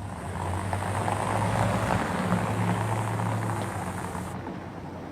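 A motor vehicle driving past, its engine hum and road noise swelling to a peak about two seconds in and then fading away.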